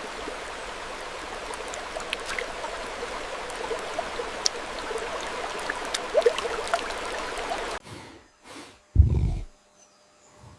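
Steady rush of flowing water with small drips and ticks, which cuts off suddenly about eight seconds in. A second later comes one short, loud, low thump or snort.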